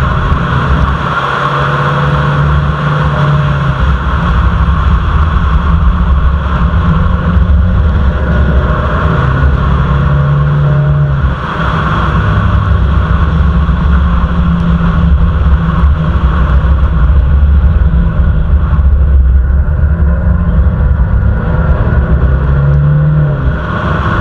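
Jaguar F-PACE's 2.0-litre turbodiesel and its tyres on the road, heard from inside the cabin while driving: a steady low drone over road noise, with the engine note rising and falling several times as the throttle changes.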